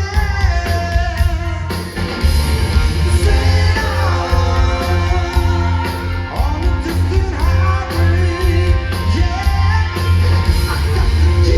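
Live rock band playing loudly, with a singer over electric guitars, bass and drums.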